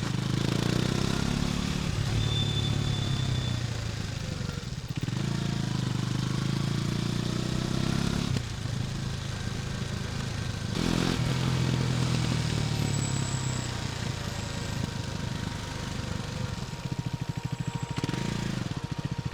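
KTM Duke 250's single-cylinder engine running while riding, its pitch rising and falling with the throttle and dropping off briefly a few times. Near the end it revs up briefly and settles into a slow, pulsing beat.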